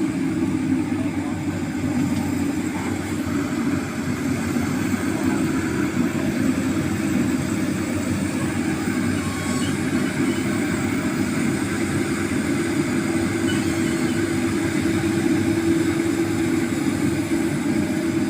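Excavator's diesel engine running steadily and evenly, with no pauses or changes in pitch.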